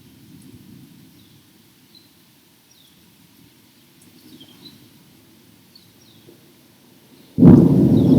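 Birds chirping with short, repeated falling calls over a faint low rumble, then a sudden loud thunderclap near the end.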